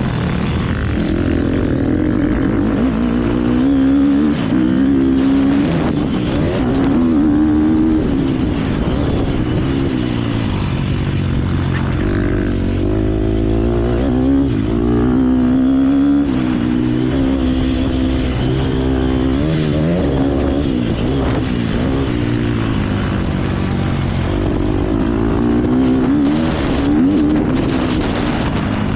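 KTM motocross bike engine revving hard, its pitch climbing and dropping again and again as the rider opens and shuts the throttle and shifts gear.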